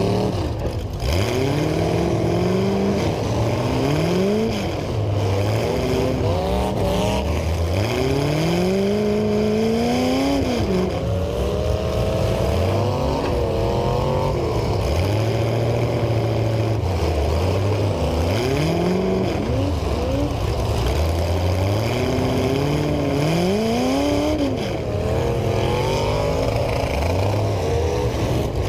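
Several demolition derby cars' engines revving hard over and over, overlapping, each climbing in pitch and dropping back every second or two.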